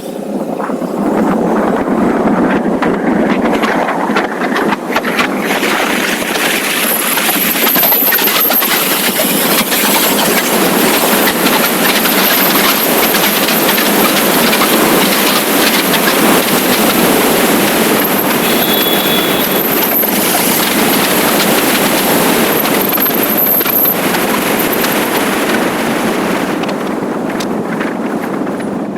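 Loud, steady rush of wind and road noise from a motorcycle riding at speed. It builds up in the first second or so and falls away near the end.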